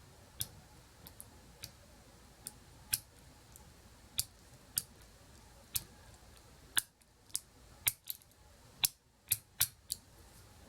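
Sparse, irregular sharp clicks of a lock pick and tension wrench working the pins of the Easy Bird challenge lock, the clicks coming closer together in the second half. It is the sound of an attempt that keeps hitting false sets and does not open the lock.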